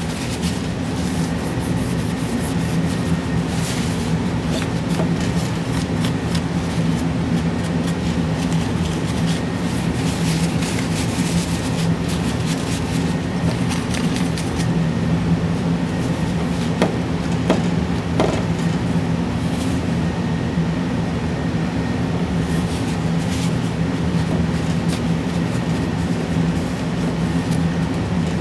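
A steady mechanical hum with a constant low drone, and a couple of faint clicks about two-thirds of the way through.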